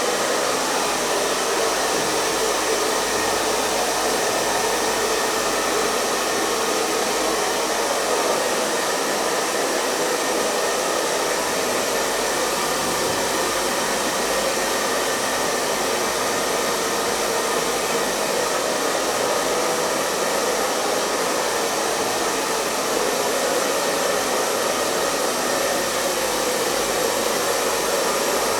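Hair dryer running steadily: a constant rush of blown air over the motor's faint hum, with no change in speed.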